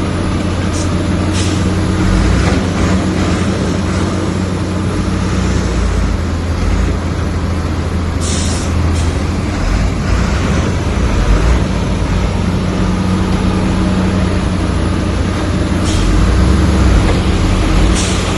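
Heavy diesel engine of earthmoving machinery running steadily under work, with a few short sharp higher noises over it: about a second in, twice in the middle and twice near the end.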